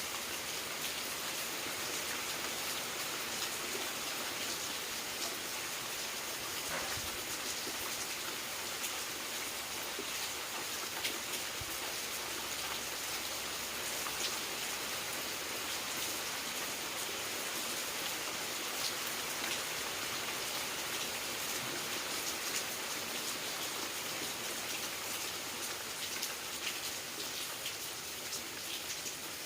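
Steady rain falling, an even hiss with many small drop ticks through it.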